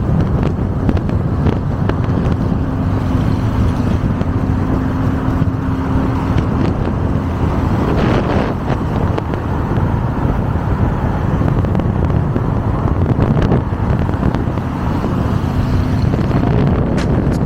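A car engine running with a steady low rumble, and wind buffeting the microphone.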